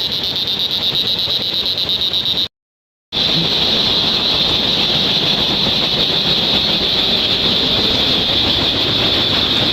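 Steady light rain falling, with a constant high-pitched drone over it; the sound drops out completely for about half a second roughly two and a half seconds in.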